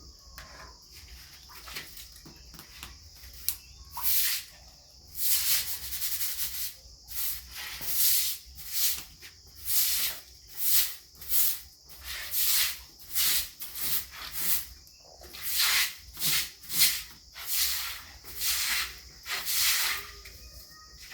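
Rhythmic rubbing or scraping strokes, about one to two a second, starting a few seconds in and going on steadily.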